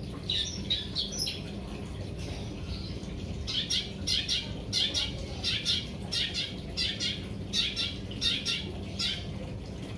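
Long-tailed shrike (cendet) calling: a few short calls, then about a second and a half in quiet, then a long run of short, evenly repeated calls at roughly three a second.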